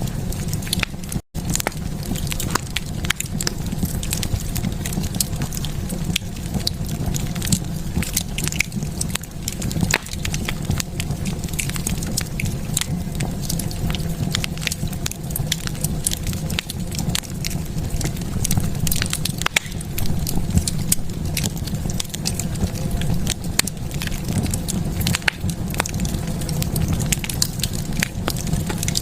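Wood fire in a fireplace crackling, with frequent sharp pops and snaps over a steady low rumble of burning. The sound cuts out for an instant about a second in.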